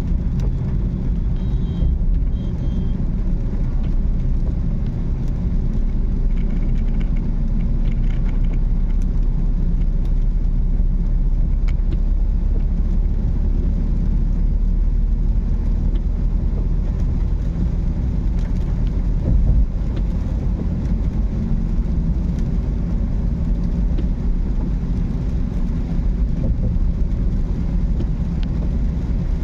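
Car driving on a rainy road: a steady, low rumble of road and engine noise that keeps on evenly throughout.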